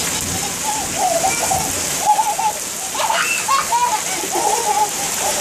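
Heavy rain pouring steadily onto pavement, an even hiss, with a voice rising and falling on and off over it.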